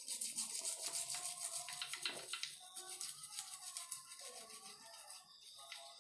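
A stiff brush scrubbing an engine part, a rapid scratchy rasp of back-and-forth strokes, strongest over the first half and easing off later.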